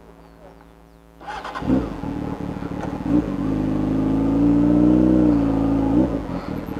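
Motorcycle engine running quietly, then about a second and a half in it gets loud and revs, its pitch climbing slowly to a peak and dropping back near the end as the bike is ridden off.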